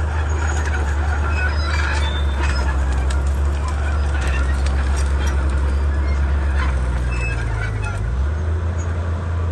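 Komatsu D31P bulldozer's diesel engine running under load with a steady low drone, its note shifting briefly about eight seconds in. Over it there is a scattered crackle and clatter of the machine working through brush.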